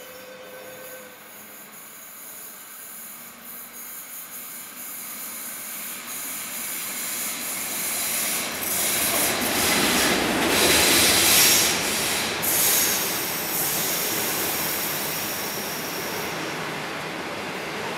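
DF11 diesel-electric locomotive hauling 25Z passenger coaches, approaching and passing close by. The noise builds over several seconds to its loudest about ten to twelve seconds in, with high-pitched wheel squeal on the curved track, then eases to a steadier rolling rumble as the coaches go by.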